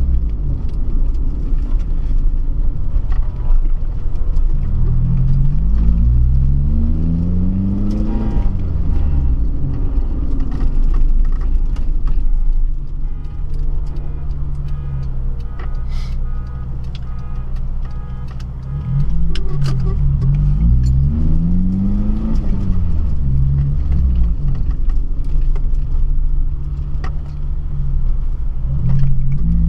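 Honda Civic Si (EP3) four-cylinder engine under way, its revs climbing and dropping repeatedly as the car accelerates through the gears, with a steadier stretch in the middle.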